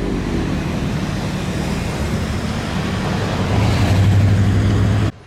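Road traffic, with a heavy vehicle's engine running close by: a steady low hum over tyre and street noise, getting louder about three and a half seconds in, then cutting off suddenly.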